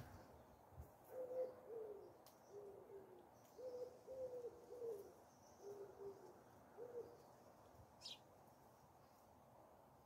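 Faint low hooting calls of a bird: about eight short notes over some six seconds, each on one pitch, several sliding down at the end. A brief high chirp follows near the end.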